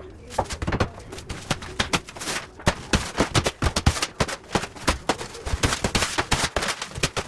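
A rapid, irregular run of sharp knocks and clatter, several hits a second.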